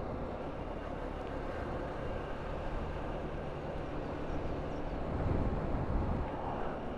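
Motorcycle running on the move, with steady wind and road noise; it swells briefly a little over five seconds in.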